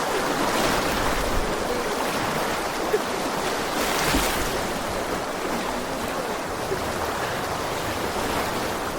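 Fast-flowing water rushing steadily, with a slight swell about four seconds in.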